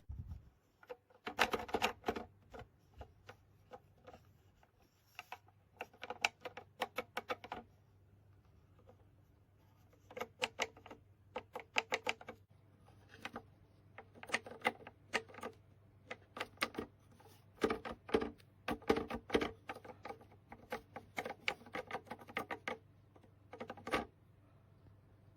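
Quiet rapid clicking and ticking in irregular bursts, over a faint steady electrical hum.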